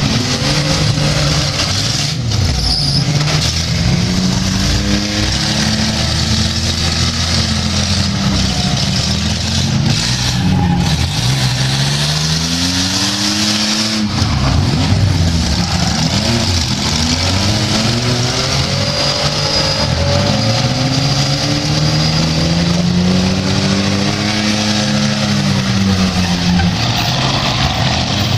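Engines of demolition derby vehicles revving up and down over and over, several at once, loud and without a break.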